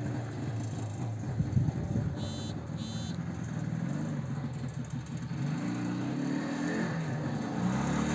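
Homemade quad bike's twin two-stroke IZh Planeta 5 motorcycle engines running, the revs rising and falling several times.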